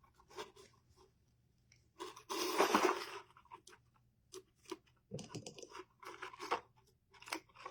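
Ribbon rustling and crinkling as it is handled and layered onto a bow. The loudest rustle comes about two to three seconds in, with more rustles about five to seven seconds in and small ticks and scrapes between.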